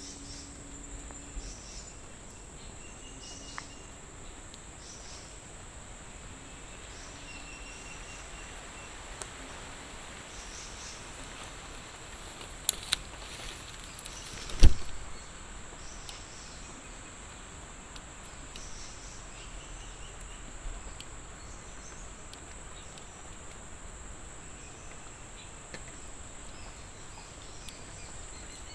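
Insects droning steadily at a high pitch, with short faint chirps now and then. Two quick clicks, then a single sharp knock about halfway through.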